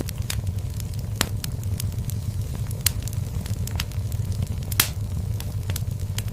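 Wood fire crackling in a fireplace: a steady low rumble with irregular sharp pops and snaps, the loudest pop about three-quarters of the way through.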